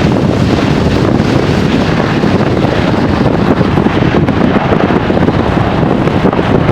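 Storm wind buffeting the microphone: a loud, steady rush of noise with a heavy low rumble.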